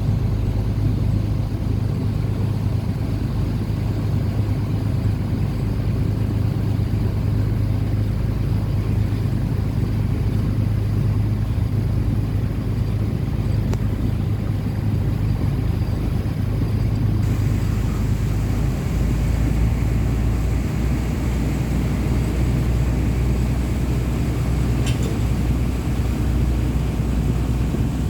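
Boat engine running steadily with a deep drone, under wind and water hiss. About two-thirds of the way through, the drone drops lower and the hiss grows louder.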